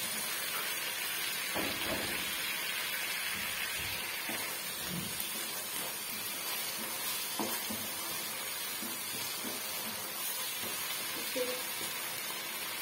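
Vegetables sizzling steadily as they fry in a nonstick wok, with a few soft knocks from a wooden spoon stirring them.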